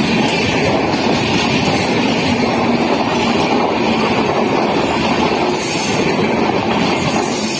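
Indian Railways train running on the track: a loud, steady rumble and rush of wheels and cars.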